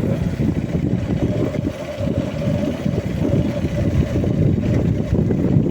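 Steady wind rumble on the microphone mixed with the running noise of a moving vehicle, with a faint steady hum throughout.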